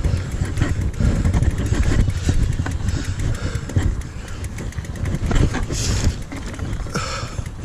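Mountain bike running down a rough dirt trail: wind buffeting the microphone, tyres rumbling, and the bike rattling with many irregular knocks over bumps.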